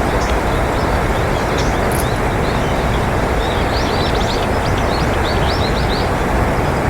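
Small birds chirping, with a quick run of high chirps about halfway through, over a loud, steady rushing background noise.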